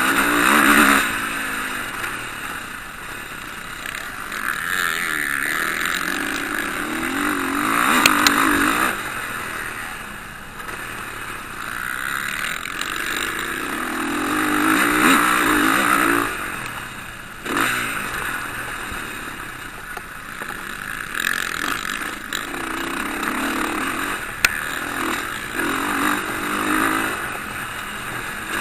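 Motocross bikes racing past, engines revving up and backing off in repeated swells as they go by, loudest about eight and fifteen seconds in.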